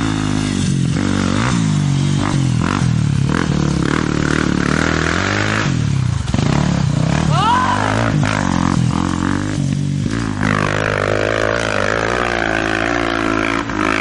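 Motorcycle engines running hard, their pitch repeatedly climbing and then dropping as the bikes accelerate.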